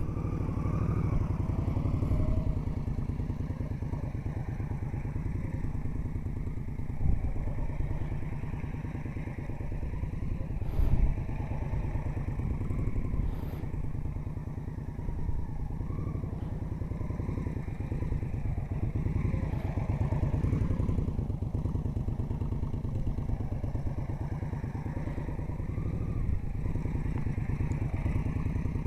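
Motorcycle engine running at low revs with small throttle changes, carrying the bike slowly through a tight cone weave, with two brief louder moments partway through.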